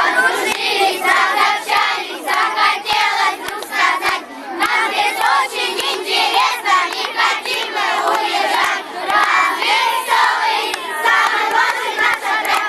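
A group of children singing together, many voices at once in rhythmic phrases.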